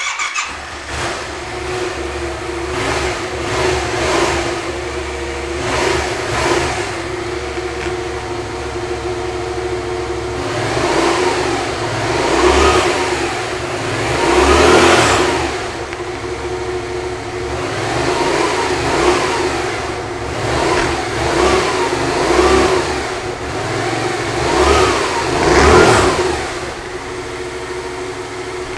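Yamaha Tracer 700's 689cc parallel-twin engine starting up and then running at idle, with about a dozen short throttle blips that rise and fall in pitch.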